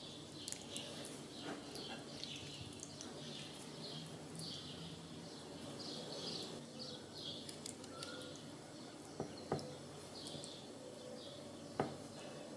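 Small birds chirping again and again in the background. A spoon scoops and spreads crumbly cheese filling onto a sheet of thin lavash, with a few sharp taps of the spoon about nine seconds in and near the end, the loudest sounds here.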